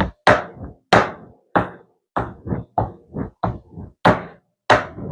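A dozen sharp, irregular knocks on a kitchen cutting board, about two to three a second, as chicken cutlets are being trimmed.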